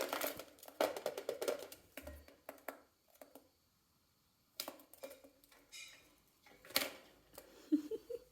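Irregular taps and clicks of a lovebird's beak snapping and nibbling at a finger, with a quiet pause about halfway through.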